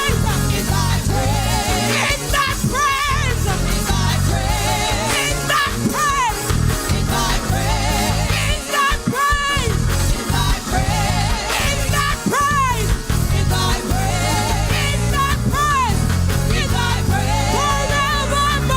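Live gospel praise band playing a hymn with a steady bass line, with wavering vibrato vocal lines over it.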